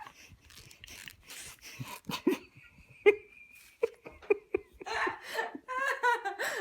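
A person laughing: short breathy bursts of laughter that break into higher, pitched laughing near the end.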